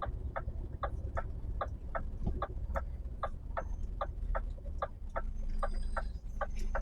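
Steady, evenly spaced clicking, about two to three clicks a second, over a low steady hum.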